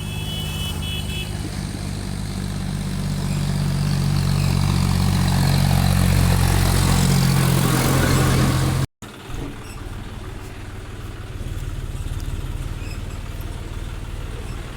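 John Deere 5050D tractor's diesel engine running at a steady speed, growing louder over the first nine seconds. About nine seconds in the sound cuts out for an instant, and the engine then runs on more quietly.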